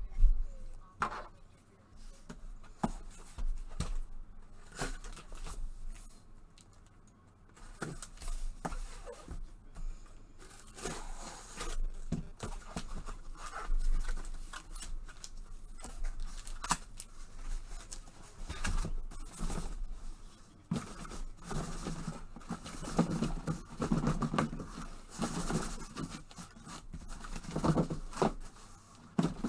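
Sealed trading-card packaging being cut and torn open by hand: plastic wrap rustling and ripping, with scattered clicks and taps of cardboard boxes being handled.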